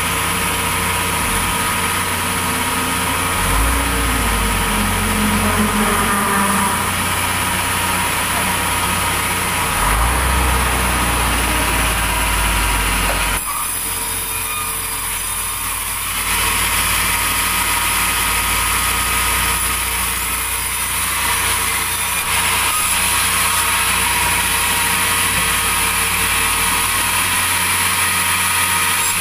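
Sawmill machinery running: a steady engine drone under a high whine. The low end swells twice in the first half, and the sound drops for a few seconds around the middle.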